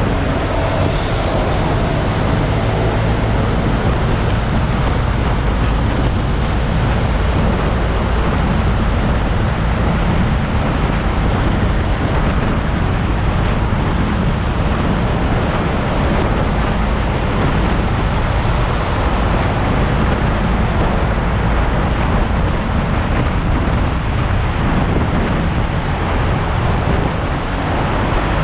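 Steady motorcycle riding noise: the engine running under continuous road and wind noise, with no break.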